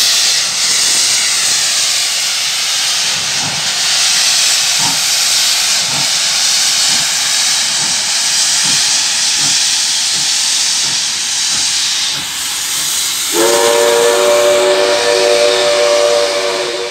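Steam locomotive hissing loudly as it blows off steam. About thirteen seconds in, its whistle sounds a long chord of several notes at once, which stops just before the end.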